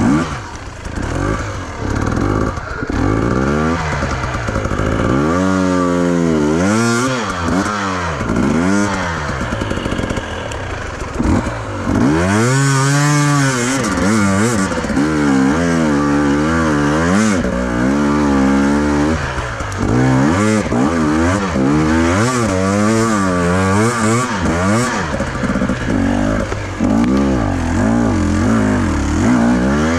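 Enduro motorcycle engine, revved up and down over and over as the bike is ridden, the pitch rising and falling every second or two with brief steadier stretches.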